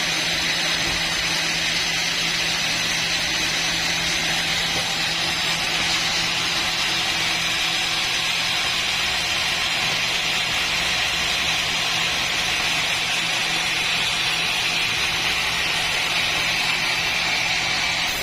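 Sawmill machinery running with a loud, steady noise and a constant low hum.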